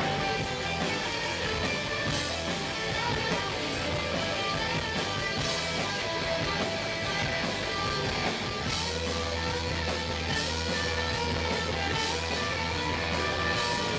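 Live rock band playing, led by guitar, with a low bass note held steady for several seconds in the second half.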